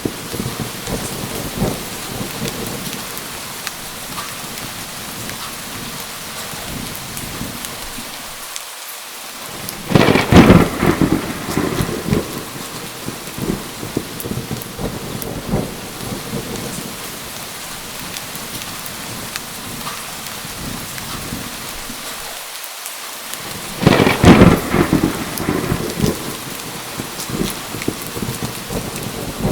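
Steady heavy rain on surfaces, with two close thunderclaps, each a loud sudden crack trailing off over a couple of seconds, about ten seconds in and again near the end.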